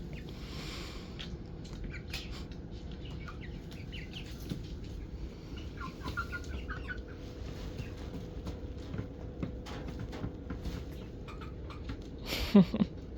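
A flock of young chickens about ten weeks old peeping and clucking softly now and then, with scattered small clicks and rustles. A brief, louder sound comes near the end.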